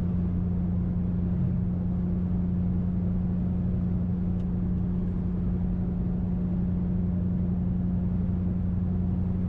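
2005 Mercury Grand Marquis 4.6-litre V8 with a muffler-delete exhaust (catalytic converters into an H-pipe, no mufflers), cruising at a steady speed: an even low exhaust drone with road noise, the engine speed not changing.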